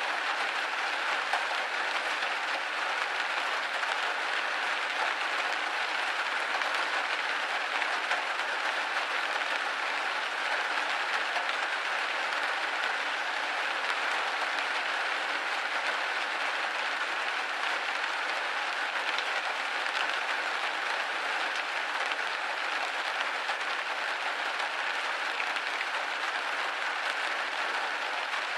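Rain pattering steadily on a window pane: a dense, even patter with no thunder.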